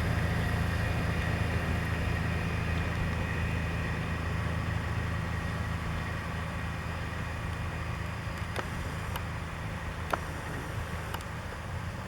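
Heavy six-wheel-drive plow truck's diesel engine running with a steady low drone that slowly fades, with a few sharp clicks in the second half.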